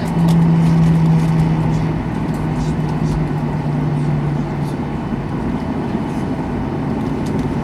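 Steady cabin hum of a Boeing 737-800 on the ground after landing, with a low droning tone that drops slightly in pitch about two seconds in.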